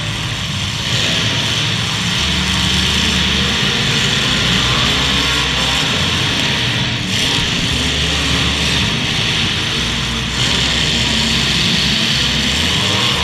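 Engines of several full-size demolition derby cars running and revving, their pitch rising and falling, over a steady loud wash of noise.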